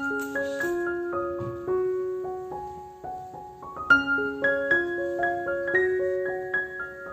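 Background music: a slow solo piano melody of single struck notes that fade after each strike. It eases off around three seconds in and comes back stronger about four seconds in.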